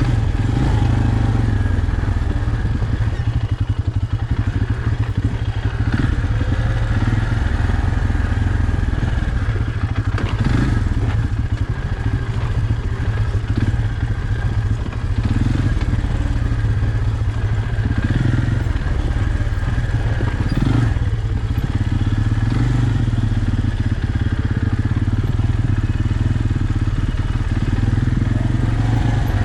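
Off-road vehicle engine running steadily under load on a steep trail, with occasional knocks and rattles.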